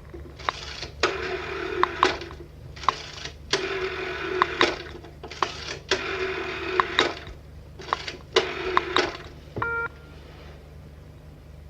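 Old rotary telephone dial being wound and let go about eight times in a row. Each return is a short mechanical whirr with sharp clicks. A brief electronic tone sounds near the end, and then only a low hum remains.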